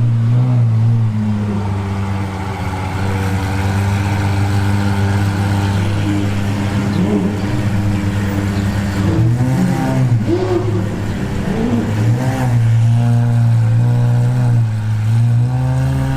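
Exotic sports car engine running at a steady idle, with a few short revs about two-thirds of the way through before it settles back to idle.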